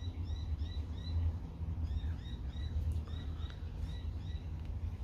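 A bird chirping over and over, a short arching note repeated evenly several times a second, over a steady low rumble.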